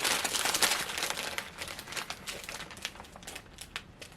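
Plastic snack bag of Ppushu Ppushu instant noodles crinkling and rustling as it is handled, dense and crackly at first, then fading to lighter crinkles.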